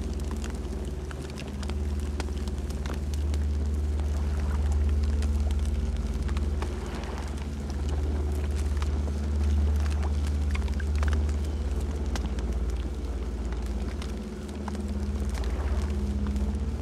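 Campfire burning: a steady low rumble with scattered crackles and pops from the burning wood.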